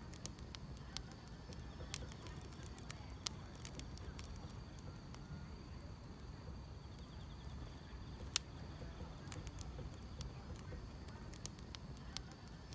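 Wood fire crackling, with irregular sharp pops over a low steady rumble; the loudest pop comes about eight seconds in. Faint steady chirping of grass insects runs underneath.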